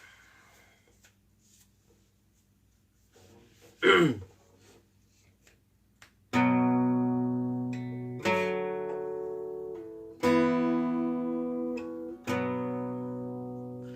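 Acoustic guitar strummed as a song intro: four chords about two seconds apart, each left to ring and fade, starting about six seconds in. Before that it is nearly quiet, apart from one short sound that falls in pitch about four seconds in.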